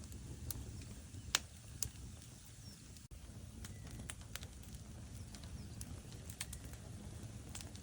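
Log fire crackling: scattered sharp pops and snaps over a low, steady rumble of burning wood, the loudest pop about a second and a half in.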